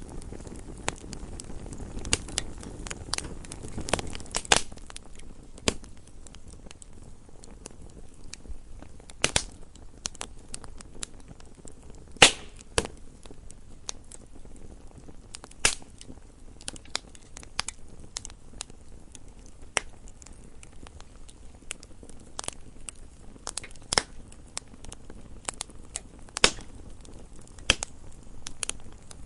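Wood fire burning in a fireplace: irregular sharp crackles and pops over a low steady hiss, with a few louder pops about 12 and 16 seconds in.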